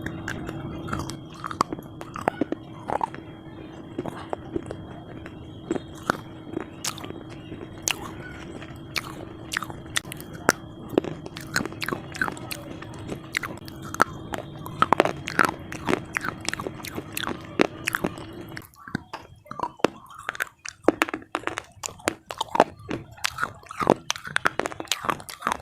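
Close-up crunching of brittle slate pieces, cubes and bars, bitten and chewed: many sharp crackling snaps in quick irregular succession. A steady background hum underneath stops abruptly about three-quarters of the way through.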